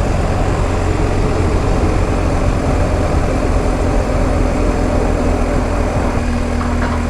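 BMW R1250 GS Adventure's boxer-twin engine running at a steady pace while riding, with road and wind noise over the microphone; a steady engine tone comes through more clearly in the second half.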